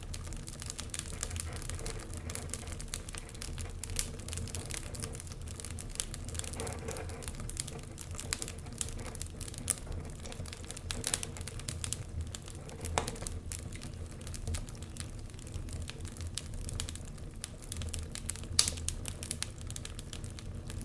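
Wood fire in a fireplace crackling: irregular sharp pops and snaps over a low steady rumble, with one louder pop near the end.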